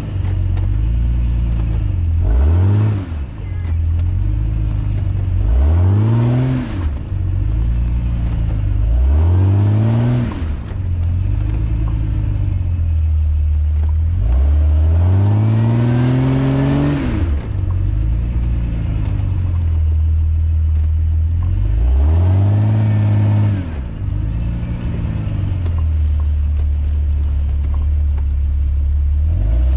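Off-road 4x4's engine revving in repeated bursts, about five times, each rising and falling in pitch and settling back to a steady low run between, the longest burst near the middle.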